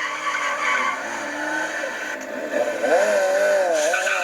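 Motorcycle doing a donut: the engine revs up and down over and over, strongest in the second half, while the rear tyre scrubs on the pavement.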